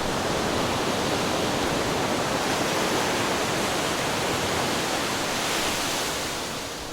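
Ocean surf washing against rocks: a steady rushing wash that swells slightly and then fades out near the end.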